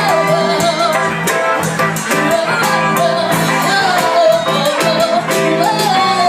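Live band music playing steadily with a sung melody over a regular beat.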